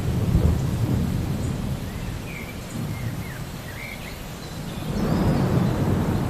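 Rolling thunder rumbling over a steady hiss of rain. The rumble eases off through the middle and swells again about five seconds in.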